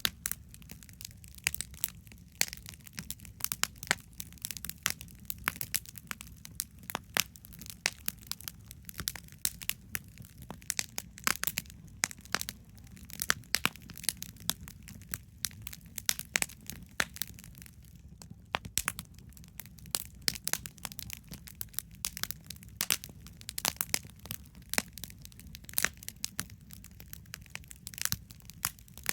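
Wood campfire crackling: burning wood gives irregular sharp pops and snaps, several a second, over a low steady rumble.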